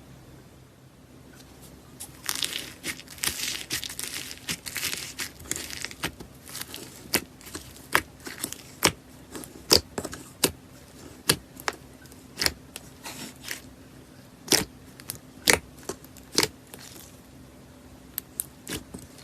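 Slime being worked by hand: a few seconds of dense crackling, then a string of sharp, separate pops and clicks, about one or two a second, as the slime is pressed and squeezed.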